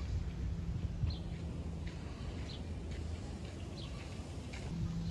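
Small birds chirping: about five short, high chirps spaced across a few seconds, over a steady low outdoor rumble.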